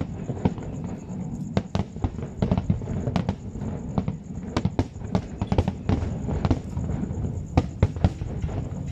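Aerial firework shells bursting in quick, irregular succession, several sharp bangs a second over a continuous low rumble.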